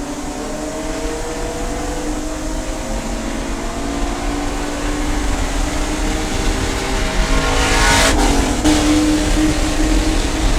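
Race car engine running hard, its note climbing steadily under acceleration and getting louder. About eight seconds in, a brief burst of noise, after which the engine settles into a steadier note.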